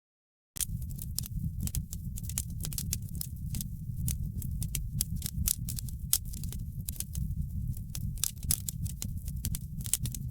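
Wood fire in a fireplace crackling: many irregular sharp pops and snaps over a steady low rumble. The sound drops to total silence for about the first half second, then resumes.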